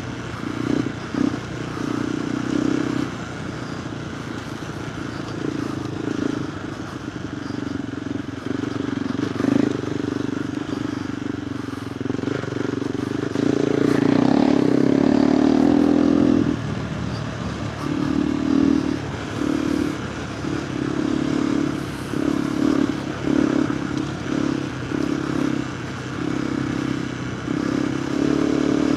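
KTM 390 Adventure R single-cylinder engine running through a Norifumi Whoops stainless slip-on exhaust with the dB killer fitted. The throttle is opened and closed over and over while riding, and held open for about three seconds around the middle.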